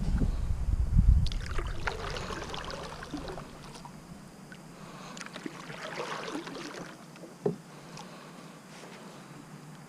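Kayak paddle strokes splashing and dripping in the water, two spells a few seconds apart, with a low rumble at the start and a single knock near the end.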